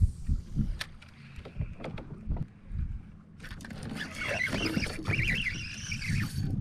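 Handling noises on a plastic fishing kayak: a scatter of small knocks and clicks, then from about three seconds in a louder rushing, sloshing water noise around the boat.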